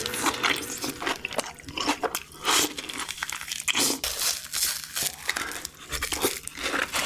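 Crunching and chewing of crispy fried chicken, a run of irregular sharp crackles with short pauses between bites.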